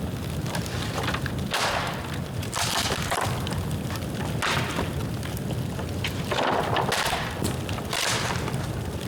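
Dry bamboo burning in a bonfire: steady crackling with sharp pops and several louder bursts of crackle, over a constant low rumble.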